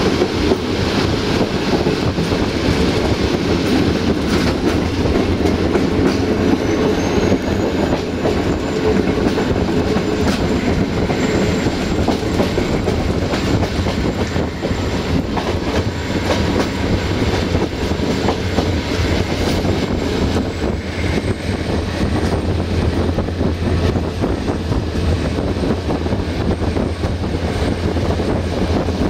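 Passenger coach heard from inside while rolling on jointed track: a steady rumble with the wheels clicking over the rail joints. A faint thin high whine runs along above it and rises in pitch a little twice.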